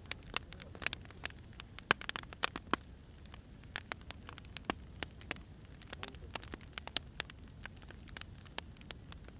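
Wood fire crackling: irregular sharp pops and snaps, several a second, over the low steady rumble of burning logs.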